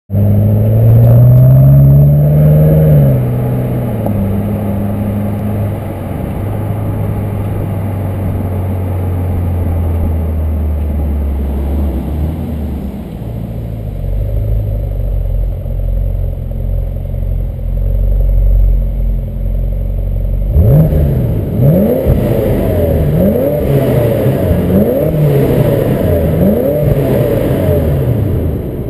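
BMW X6 M (E71) twin-turbo 4.4-litre V8 engine and exhaust: a rev that rises and falls in the first few seconds, then steady idling. About two-thirds of the way through comes a series of quick throttle blips, each rising and falling in pitch.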